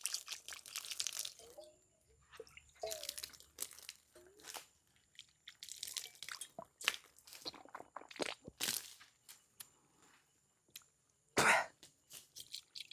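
Toothbrush scrubbing teeth in short bursts with pauses between, and a few faint throat or mouth noises. One short, loud sound near the end.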